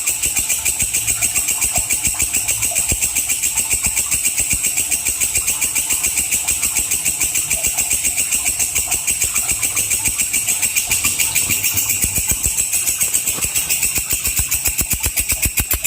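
Walang kecek, a katydid, stridulating steadily: a fast, even train of rasping pulses at several per second, high-pitched.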